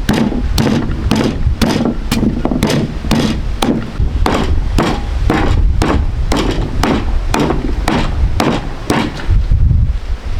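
Repeated sharp strikes, about two to three a second, like chopping or hacking, over a steady low rumble that briefly drops away near the end.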